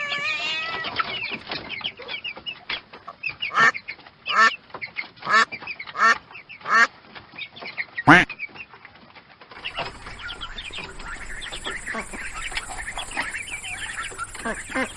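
Ducks quacking: five loud quacks about a second apart, then one more. After that comes a softer run of many overlapping quacks and chatter from a flock over a steady hiss.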